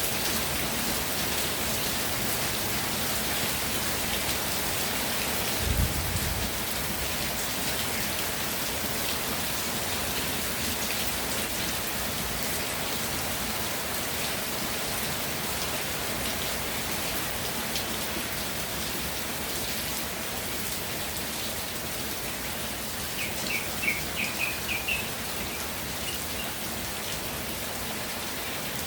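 Steady rain falling and pattering on surfaces. A single dull low thump comes about six seconds in, and a short run of high chirps comes a little past three-quarters of the way through.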